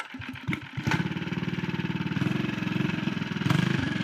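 Tillotson 212cc Hemi single-cylinder engine on a mini bike starting: a few uneven firing pulses, catching about a second in, then running at a steady even idle.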